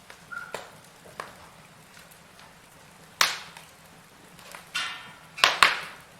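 Firewood burning in a fireplace, crackling with irregular sharp pops: a loud crack about three seconds in and two more near the end, with a brief hiss between them.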